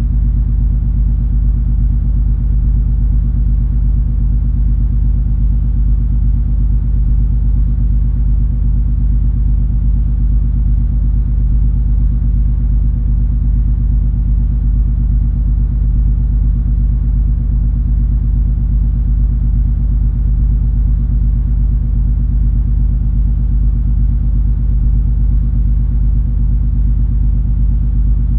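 Cruise ferry MS Color Magic's engines heard on board as a steady, low, unchanging drone with a deep hum.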